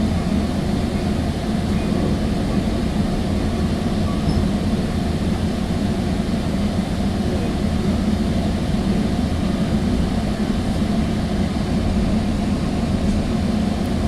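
Sounder commuter train in motion, heard from inside a passenger car: a steady, low rumble of the wheels running on the track.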